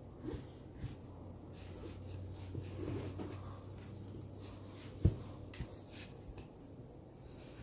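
Faint handling noise from a leather and neoprene hood as its paracord lacing is pulled tight through the eyelets: light rubbing and small clicks, with one sharper knock about five seconds in.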